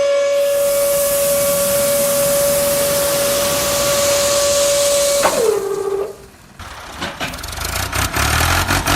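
A long, steady whistle-like tone with a loud hiss over it. About five seconds in, the tone slides down in pitch and stops, and the hiss ends a second later. A low rumble with clattering clicks follows.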